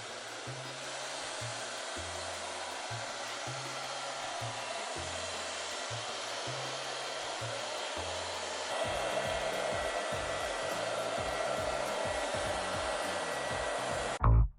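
Monarc Botbot robot vacuum cleaner running, its suction fan and brushes giving a steady whooshing hiss that gets a little louder with a stronger hum about two-thirds of the way through, then cuts off suddenly near the end. Quiet background music with a steady bass line plays underneath.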